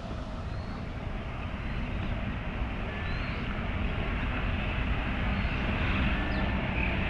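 Steady low rumble of city traffic that slowly grows louder, with a few faint short high chirps over it.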